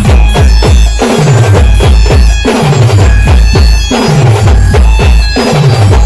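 Loud band music: a steady, heavy bass drum beat with repeated falling pitch sweeps in the low end, under short high held melody notes.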